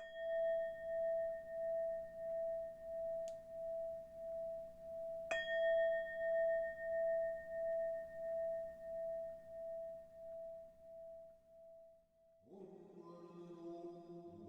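A standing bowl bell is struck twice, about five seconds apart. Each strike rings one clear tone with higher overtones and a slow, pulsing waver as it dies away. Near the end, music fades in.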